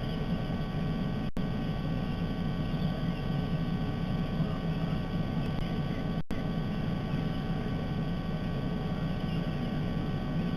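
Steady low background rumble with a few faint steady high tones over it. The sound cuts out completely for an instant twice, about a second in and about six seconds in.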